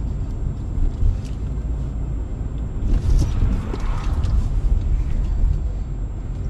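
Car driving, heard from inside: a steady, loud low road and engine rumble, with a brief sharper, noisier stretch about three seconds in.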